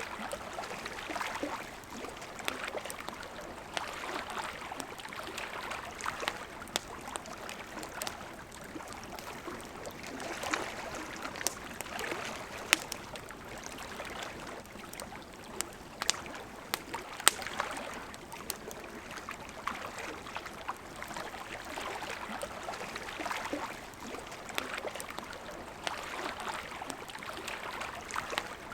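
Campfire crackling with sharp pops and snaps over a steady babbling river. The loudest pops come about a third of the way in and just past the middle.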